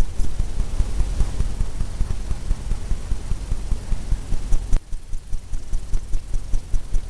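Paintbrush tapping rapidly against a stretched canvas: a steady run of dull thumps, about four or five a second.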